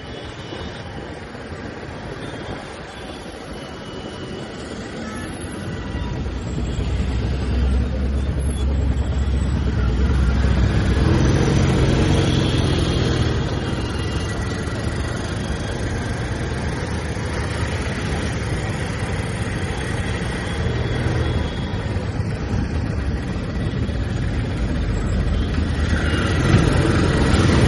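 Royal Enfield Classic 350's single-cylinder engine and exhaust running under way in traffic, getting louder about six seconds in as it pulls harder, then holding steady.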